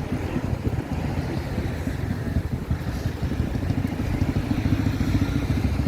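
An old motorcycle's engine running on the road, a steady low rumble amid street traffic.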